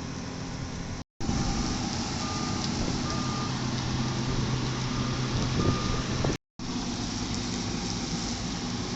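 Road milling machine's diesel engine running steadily under load as its drum grinds up the old asphalt layer, with a vehicle's reversing beeper sounding in short high beeps through the middle stretch. The sound cuts out abruptly twice, about a second in and again after about six seconds.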